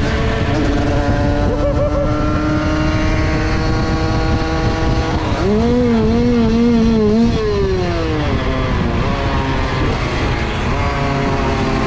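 Small two-stroke dirt-bike engines, 50cc-class kitted to 70–80cc, being ridden hard. The engine note climbs steadily for about five seconds, wavers up and down for a couple of seconds, falls away, then climbs again near the end.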